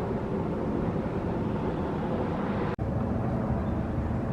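Steady low background rumble, broken once by a sudden brief dropout near the end.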